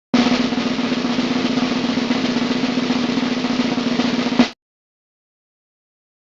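Snare drum roll lasting about four seconds, ending in a single accented hit, then cutting off sharply.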